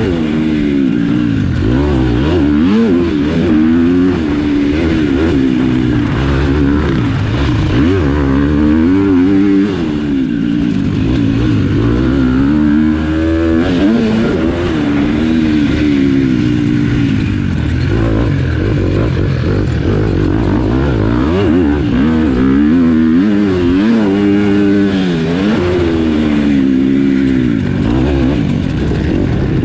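Motocross bike engine revving hard and easing off again and again, its pitch climbing and falling every few seconds as the throttle is opened and closed through a lap.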